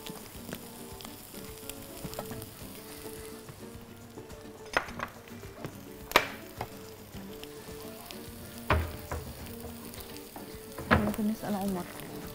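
Minced beef and onions sizzling in a frying pan as spices are sprinkled on, with a few sharp knocks at about five, six, nine and eleven seconds.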